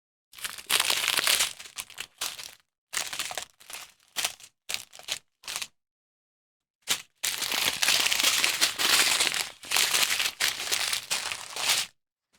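Small plastic bags of diamond painting drills crinkling as they are handled and sorted, in a string of short bursts, then a longer stretch of crinkling from about seven seconds in.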